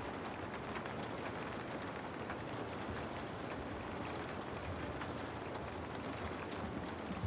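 Steady rain falling on a window pane: an even hiss with many separate drops ticking through it.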